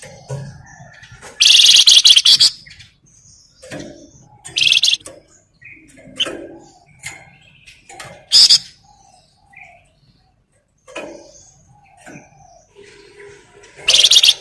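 Flamboyan songbird singing: loud bursts of rapid, high chattering trills, four times, with softer short calls between them.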